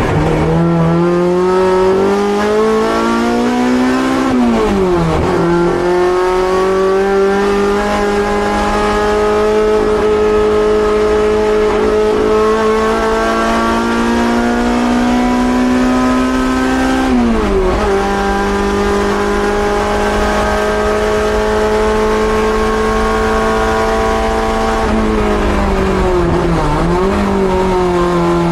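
Honda Civic EG6 race car's B18C 1.8-litre inline-four running hard at high revs, its pitch climbing under acceleration. The revs drop sharply at two upshifts, about four and seventeen seconds in, then rise slowly again before easing off with a brief dip near the end.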